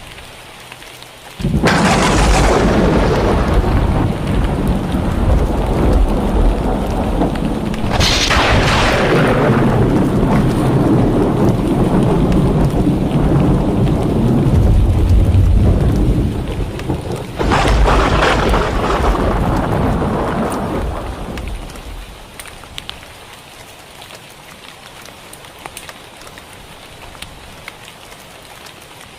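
Thunder during heavy rain: three loud claps, about a second and a half, eight and seventeen seconds in, each rolling on into a long low rumble. The thunder dies away about twenty-two seconds in, leaving steady rain.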